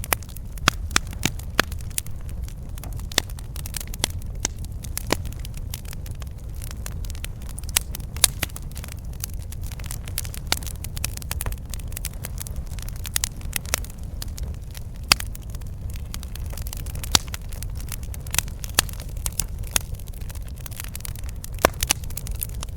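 Campfire burning, with frequent sharp, irregular crackles and pops of wood over a steady low rumble of the flames.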